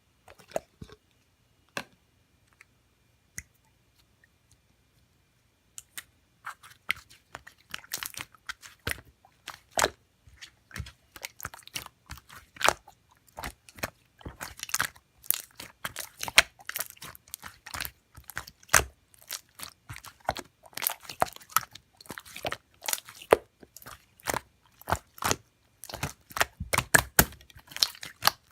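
Slime being squished and pressed by hand, with a few scattered pops at first, then, from about six seconds in, a dense, irregular run of sticky popping and crackling clicks.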